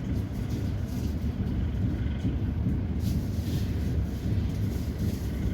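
Passenger train running along the track, heard from inside the carriage: a steady low rumble.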